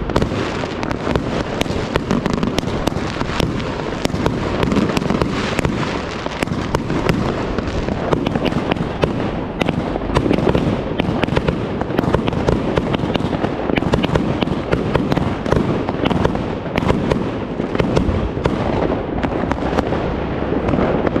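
Triplex XB4067 firework box firing a dense, unbroken barrage of bangs and crackles, many shots every second.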